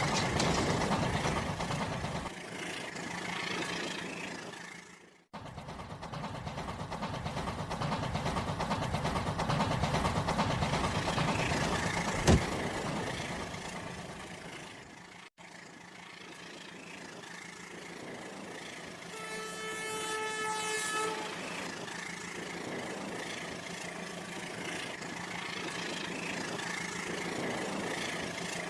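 Train running, with a horn sounding for about two seconds past the middle. The sound breaks off abruptly twice, and there is a single sharp click about twelve seconds in.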